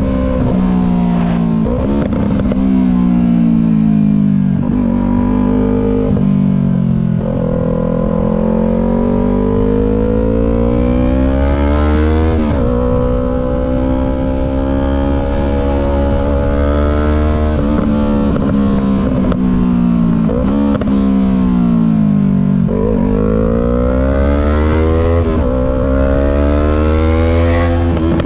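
Yamaha MT-03's parallel-twin engine through a full Disarsz aftermarket exhaust, accelerating and shifting gears on the move: the pitch climbs steadily, then drops sharply at each shift, about half a dozen times.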